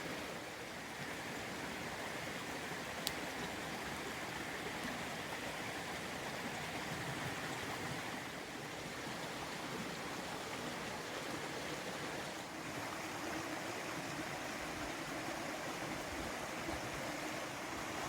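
Creek water flowing steadily, an even rushing sound, with a single sharp click about three seconds in.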